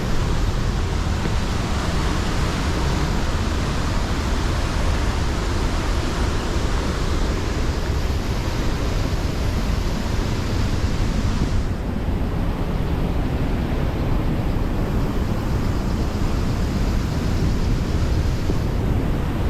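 Steady rush of water from a waterfall. The higher hiss thins out about two-thirds of the way through and again shortly before the end.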